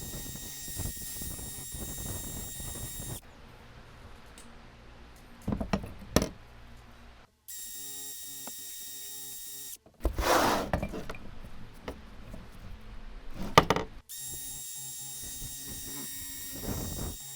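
Workshop sounds from short cut-together clips of work on metal machine parts: sharp knocks and clanks of handling, and a louder burst of noise about ten seconds in.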